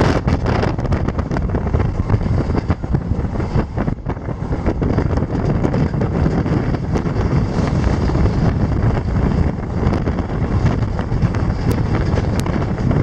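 Train running across a long railway bridge, heard from an open coach door: a steady rumble of wheels on the rails mixed with wind buffeting the microphone. Two faint brief high sounds come near the end.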